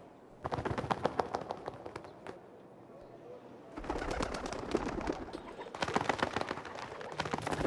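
Birds: two stretches of rapid, dense clicking sounds, the first starting about half a second in and the second near the middle, with a quieter gap between.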